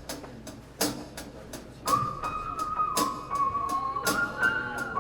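Live band music opening a song: light, sharp percussion hits ticking along, joined about two seconds in by a high held melody note that slides in, then steps up to a slightly higher note near the end.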